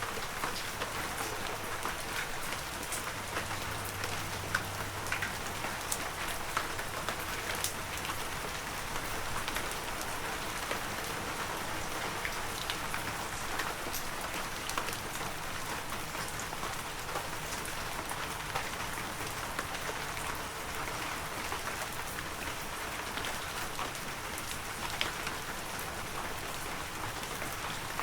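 Heavy rain falling steadily, a dense even hiss with many distinct drops tapping close by.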